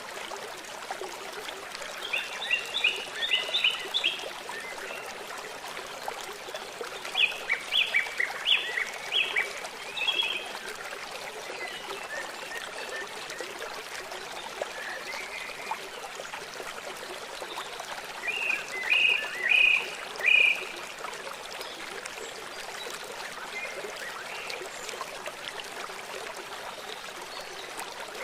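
Steady rush of flowing stream water, with three short runs of rapid, repeated high-pitched animal calls about two, seven and eighteen seconds in.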